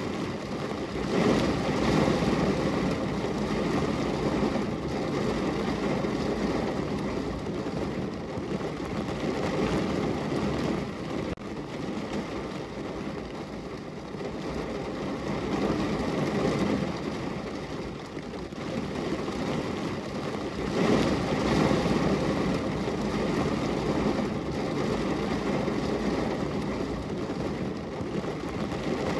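Steady rain falling on a window, with a low rumble that swells and fades every several seconds.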